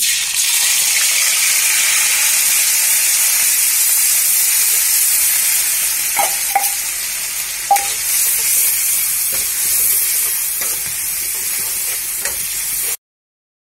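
Wet ground onion, ginger, garlic and cumin paste sizzling loudly in hot oil in a steel kadhai, starting sharply as it hits the oil and going on steadily while it is stirred. A few light clicks of the spatula against the pan come around the middle, and the sound cuts off suddenly about a second before the end.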